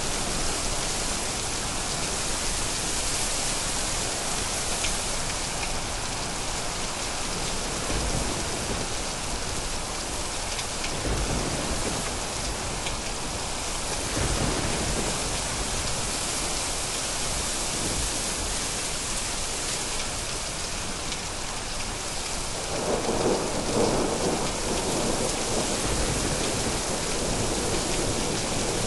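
Steady heavy rain with rolling thunder: low rumbles swell several times, and a louder roll of thunder builds about 23 seconds in.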